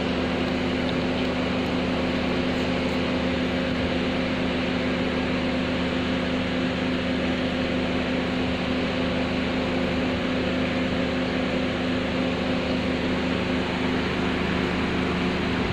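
A steady machine hum with several held tones over an even rushing noise, unchanging throughout.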